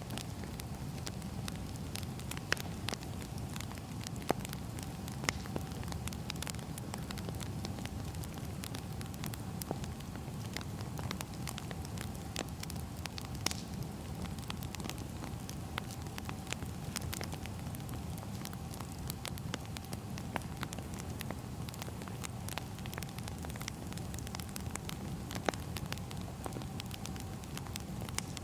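Firewood burning, with frequent sharp crackles and pops scattered over a steady low rush of the fire, and a faint steady hum underneath.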